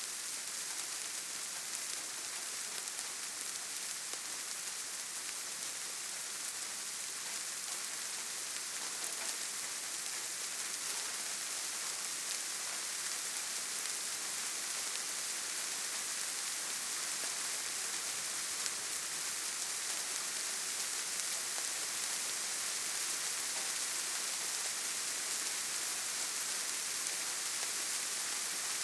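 Steady rainfall in a forest, an even hiss of drops falling on leaves and the ground.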